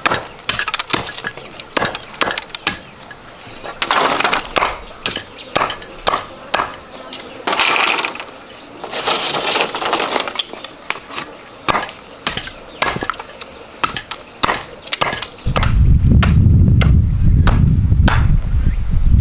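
Irregular sharp wooden knocks and clicks, with a few short rustling bursts among them; about three-quarters of the way through, a loud low rumble comes in and stays.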